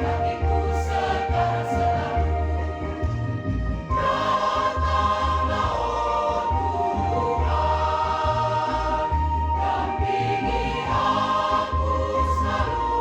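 Church choir singing in several parts, holding long notes that change every second or so, over a steady low accompaniment.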